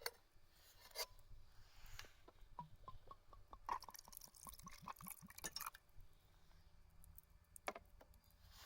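Liquid poured into a glass: a few light clicks, then a quick run of small glugs for about three seconds, and one more click near the end.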